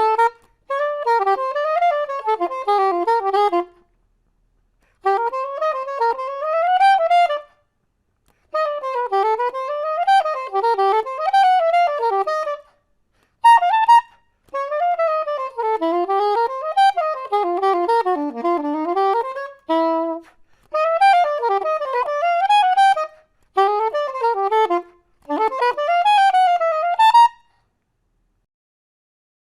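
Solo soprano saxophone playing fast, winding runs of notes in short phrases with brief pauses between them. The sound is dry, with each phrase cutting off cleanly without a reverb tail.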